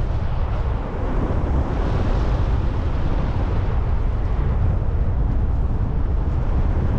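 Steady wind rushing over the microphone in flight: a low rumble with a hiss over it.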